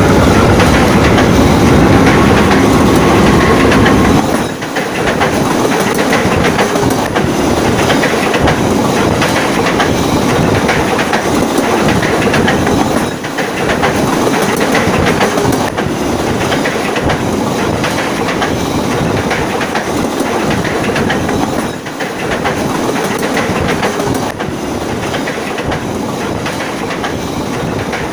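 KAI diesel-electric locomotive passing just below and then moving away. The engine and wheels are loud for the first four seconds, then the engine fades slowly under steady clickety-clack of the wheels on the rails.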